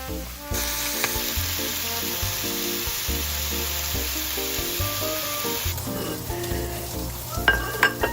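Food sizzling in a hot frying pan, starting about half a second in and cutting off abruptly a little past the middle, over background music. A few sharp clicks near the end.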